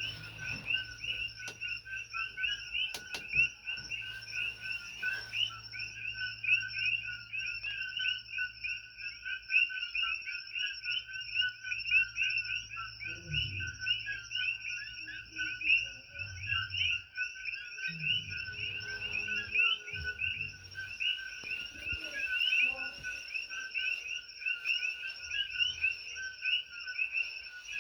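A dense chorus of many coqui frogs calling at once: countless high, overlapping chirps that never pause.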